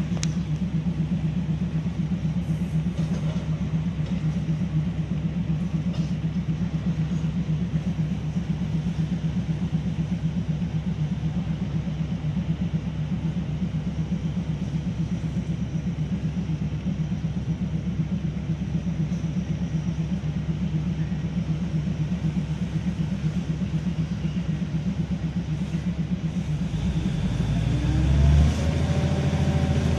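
Steady rumble of a moving Thai diesel train heard from inside the carriage: engine and wheels running on the rails. Near the end the rumble grows deeper and louder, with a tone that rises and falls.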